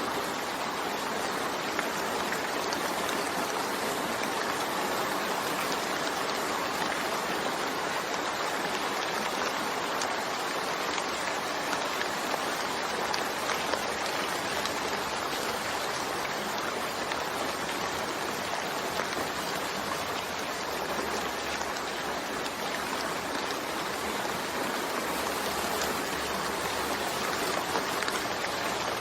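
Steady rain falling, an even hiss of drops with faint scattered ticks and no thunder.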